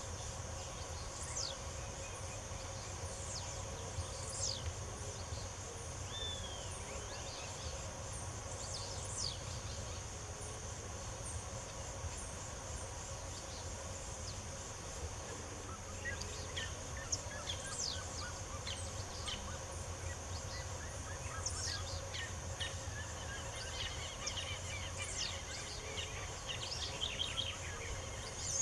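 Wild birds chirping with short, quick descending notes and a few brief trills, more active in the second half, over a steady high insect buzz and a low rumble.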